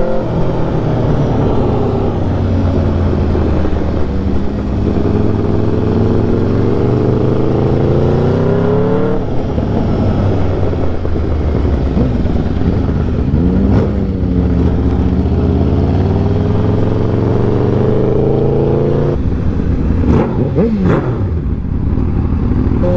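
Straight-piped Aprilia RSV4 V4 sport bike engine pulling hard under acceleration, its pitch climbing steadily. The pitch drops sharply at about 9 s and again near 19 s as it shifts up through the gears.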